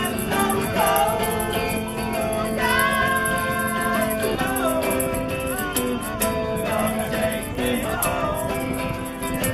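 Live band music: amplified instruments playing with a melody line that bends up and down over a steady backing.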